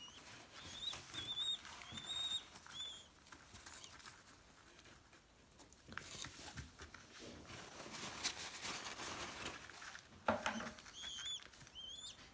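Orphaned pigeon squab peeping as it is hand-fed slurry: short high squeaks that rise then hold, several in the first three seconds and again near the end. Soft clicking and tapping runs between them, with a single louder knock about ten seconds in.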